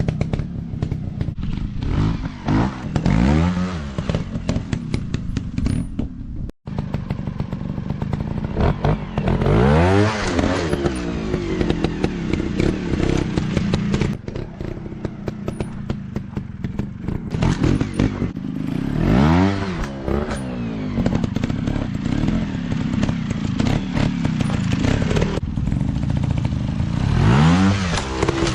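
Off-road motorcycle engines running and revving, the pitch rising and falling in several sweeps over the stretch, with a brief cut-out of the sound about six seconds in.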